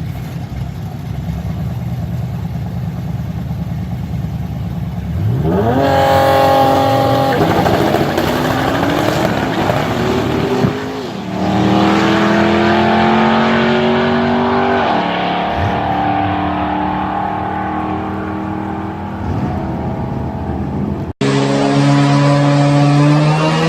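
Car engine running steadily, then accelerating hard with its note climbing in pitch and dropping back at each upshift, about every four seconds. Near the end a cut leads into another hard-accelerating run.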